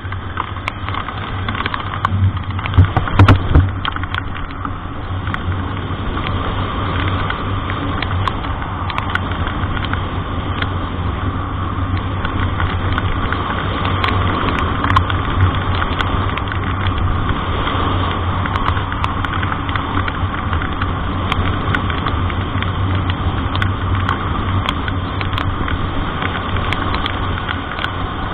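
Motor vehicle engine running steadily, heard from inside the cab while driving in the rain, with scattered sharp clicks throughout and a cluster of louder knocks about three seconds in.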